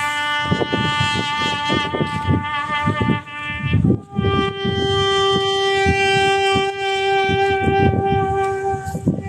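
A wind instrument playing long held notes: one note for about four seconds, then a higher note held for about five seconds, with irregular low rumbling underneath.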